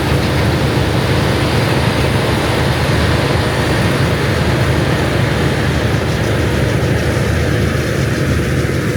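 Large diesel harvest machinery running steadily under load: a heavy engine's deep hum under a dense, even mechanical rush. It fades in at the start and fades out near the end.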